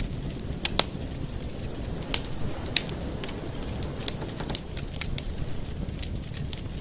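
Campfire burning: irregular sharp crackles and pops, about a dozen, the loudest about a second in, over a steady low rush of the flames.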